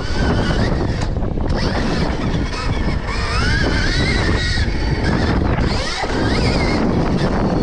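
Stark Varg electric motocross bike being ridden on a dirt track. Its electric motor whine rises and falls in pitch with the throttle, over heavy wind rumble on the microphone.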